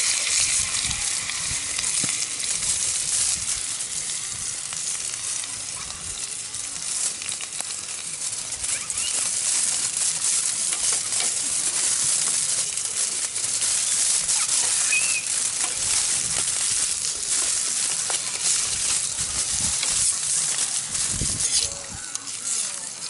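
Food frying in a pan, a steady sizzle that drops off about 22 seconds in.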